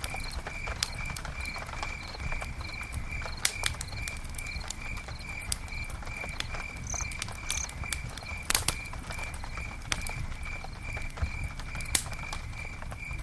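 Campfire crackling with scattered pops over a low rumble of burning wood; the sharpest pops come about three and a half, eight and a half and twelve seconds in. A high, even chirp repeats about three times a second throughout.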